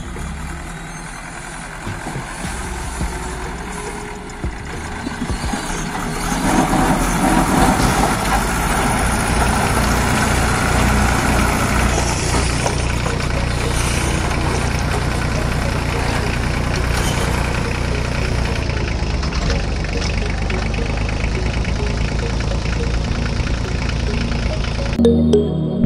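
Engine running steadily with a rattly, idling sound, getting louder about six seconds in.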